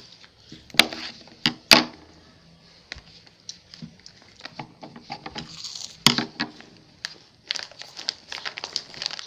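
Crinkling and crackling of packaging being handled and opened, with a few louder sharp knocks about a second in and again a little after six seconds.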